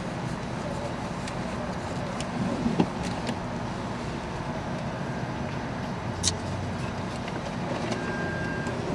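Car engine idling steadily, heard from inside the cabin, with a few light clicks and a short high beep near the end.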